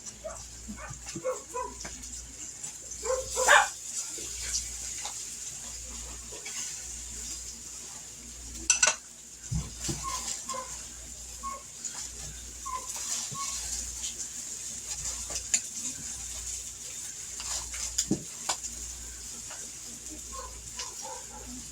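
Chicken thighs frying in oil in a skillet, a steady sizzle, with utensils clinking and knocking against the pan a few times, loudest about three and a half seconds and nine seconds in.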